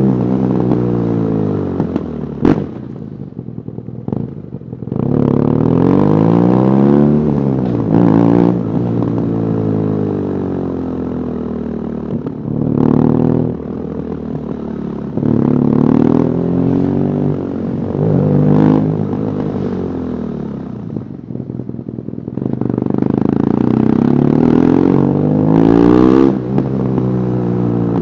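BMW R nineT Urban GS's 1170 cc air/oil-cooled boxer twin, stock exhaust, heard from the rider's position, accelerating and rolling off again and again through the gears, its pitch rising and falling in repeated sweeps. There is a sharp pop about two and a half seconds in.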